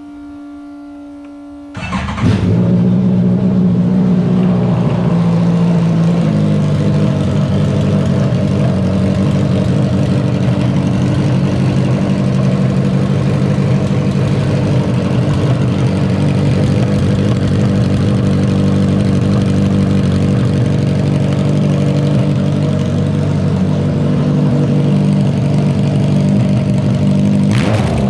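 Motorcycle engine in a car starting after a short steady whine, then running loud and steady at idle. Its note steps up slightly a few seconds after it catches.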